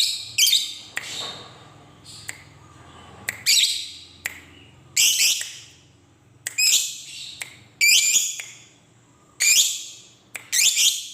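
Lovebird calling in short, shrill bursts of chatter, about eight of them, spaced roughly one to one and a half seconds apart.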